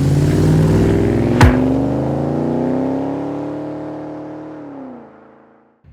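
Car engine accelerating, its pitch climbing slowly and steadily, with a sharp hit and a quick falling sweep about a second and a half in. Near the end the pitch drops and the sound fades out.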